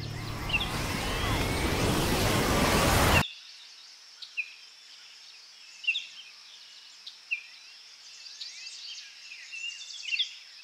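A loud rushing noise builds up and cuts off abruptly about three seconds in. Then comes a quiet outdoor ambience of steady hiss with short bird chirps scattered throughout.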